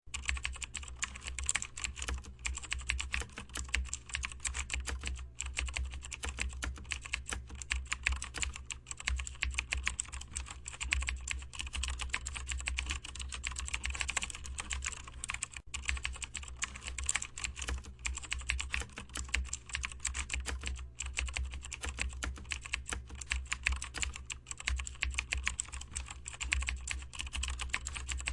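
Fast, continuous typing on a computer keyboard, many key clicks a second without a pause, over a steady low hum.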